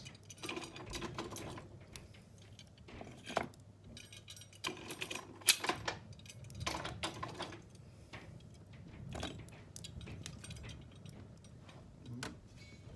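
Lumps of coal being placed by hand into a fireplace grate, clinking and knocking against each other and the iron grate in an irregular string of knocks, the sharpest about five and a half seconds in.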